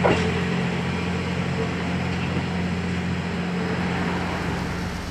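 Steam-hauled train running past: a steady rumble with a low hum, slowly fading toward the end. A single sharp knock comes right at the start.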